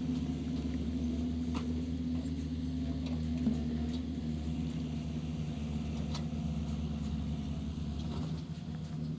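Heavy diesel engine of construction machinery running steadily at an even speed, with a few faint clicks over it.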